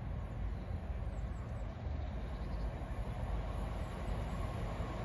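Northern Class 156 diesel multiple unit approaching from a distance: a steady, low rumble with no distinct horn or clatter.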